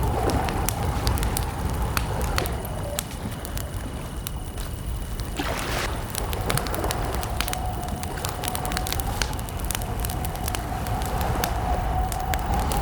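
Wood campfire crackling with many sharp pops over a steady low rumble, with a faint steady high insect tone throughout. A brief rush of noise comes about five and a half seconds in.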